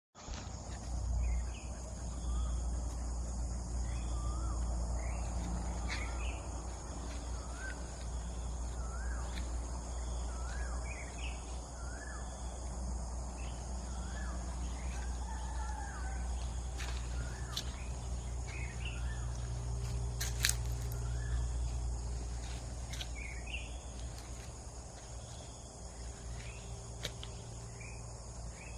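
Outdoor ambience: a steady high insect drone, with a bird repeating short rising calls about once a second, over a low rumble. A few sharp clicks, the loudest about two-thirds of the way through.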